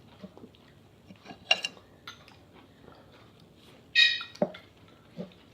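Cutlery clinking against a plate while eating: two sharp ringing clinks about two and a half seconds apart, with a few softer knocks between and after.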